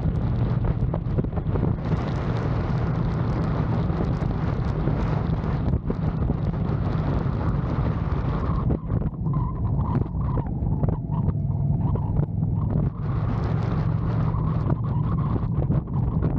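Indian Challenger's V-twin engine running steadily at riding speed, under heavy wind buffeting on the microphone.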